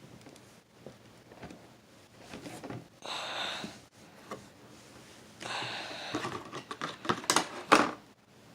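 Two long puffs of breath blown out, each about a second, followed by a few sharp clicks and knocks from handling the plastic RC truck near the end.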